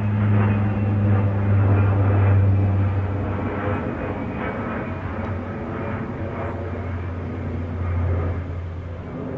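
Fixed-wing aircraft engine drone: a steady low hum with a stack of tones above it. It is loudest over the first few seconds, then eases off and fades away.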